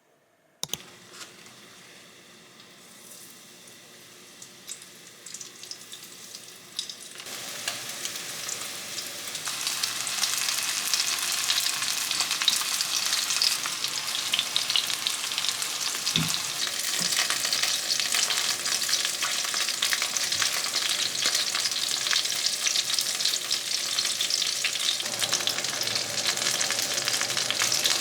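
Food sizzling in a frying pan: a faint hiss that grows louder about seven seconds in, then a steady sizzle.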